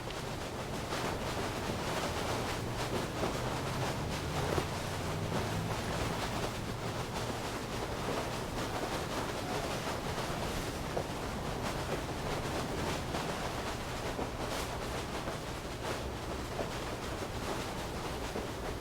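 Steady rain hiss from an animated film's soundtrack, with a faint low hum under it for a few seconds near the start.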